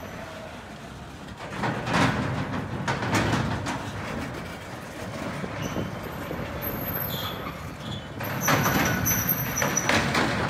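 Train running on rails: a steady rumble with two louder stretches of metal clanking and scraping, about two seconds in and again about eight seconds in.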